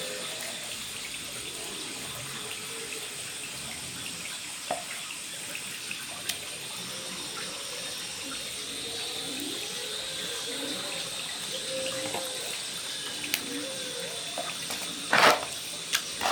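Water running steadily, as from a tap, with faint voices underneath and a few light clicks; two short loud bursts come about a second apart near the end.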